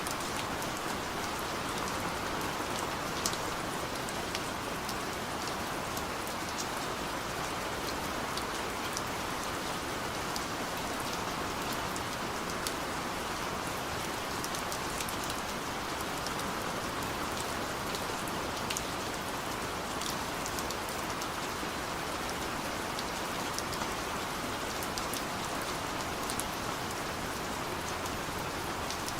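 Heavy downpour falling steadily, with a constant hiss and scattered sharp ticks of individual drops striking close by.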